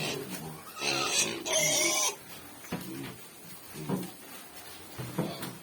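White piglets grunting in short repeated bursts, with one loud, shrill squeal lasting about a second starting about a second in.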